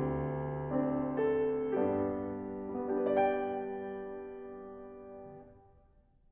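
Piano accompaniment playing its closing notes, with a last chord struck about three seconds in that rings on and fades away to silence near the end.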